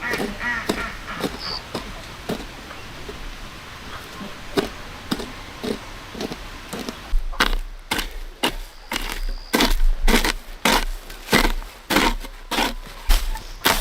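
Wood being chopped with a blade: a run of sharp strokes, lighter and spaced out in the first half, then heavier, steady strokes about two or three a second from about halfway through.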